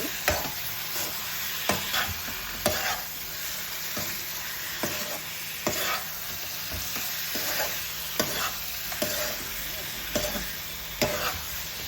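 Chicken pieces sizzling in spiced oil and masala in a kadai, being stirred with a spatula: a steady frying hiss with irregular scrapes and knocks of the spatula against the pan.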